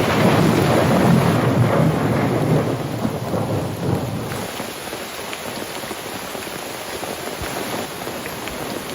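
A clap of thunder rumbling over steady heavy rain. It is loudest in the first few seconds and dies away after about four seconds, leaving the rain falling steadily.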